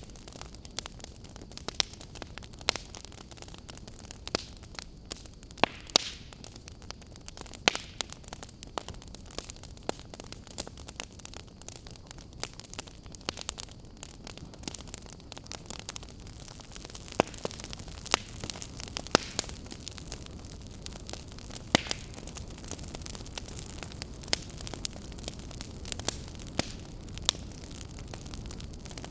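Wood fire crackling, with irregular sharp pops and snaps, a few louder than the rest, over a steady low hiss.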